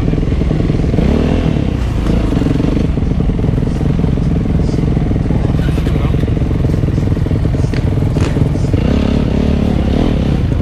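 Motocross motorcycle engine running close to the microphone, its revs rising and falling about a second in and again near the end, with clattering knocks over it.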